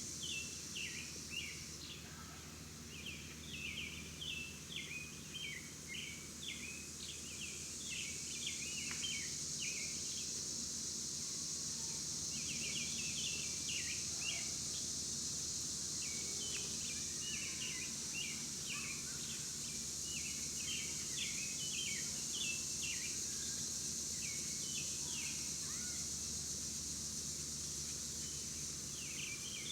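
Small birds chirping in quick runs of short, high notes, with a brief lull about a third of the way through, over a steady high-pitched hiss.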